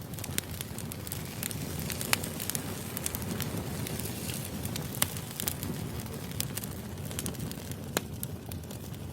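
Wood fire burning: a steady low rumble of flames with frequent crackles and a few sharp pops, the loudest about two, five and eight seconds in.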